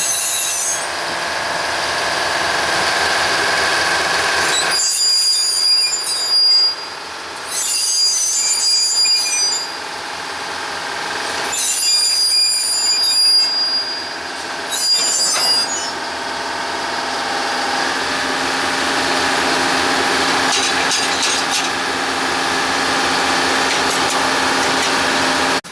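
Railroad locomotive crane moving on yard track, its engine running steadily, with high metallic squealing in several short bursts.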